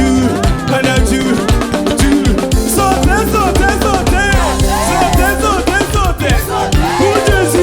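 Live church worship band playing an upbeat African-style groove with drums and bass, with several voices singing and calling over it.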